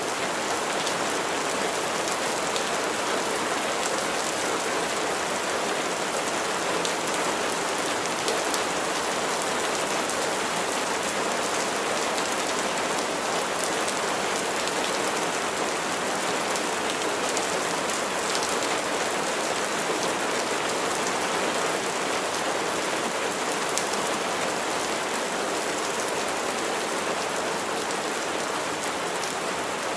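Steady rain falling, a dense even patter of raindrops hitting a surface, with fine individual drop ticks in the hiss.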